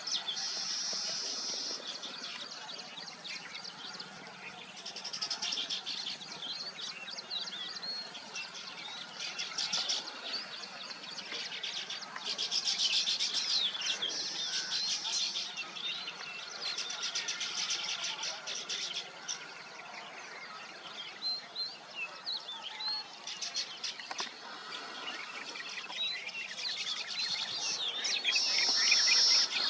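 Weaver birds chattering at a nesting colony: dense, buzzy bursts of song every few seconds among many scattered short chirps, loudest near the end.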